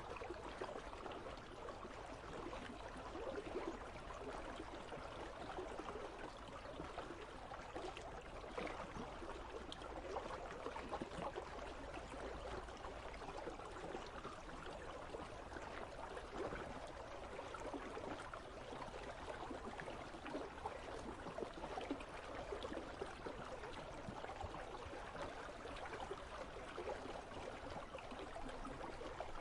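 River water flowing steadily among ice, with a continuous babbling and trickling.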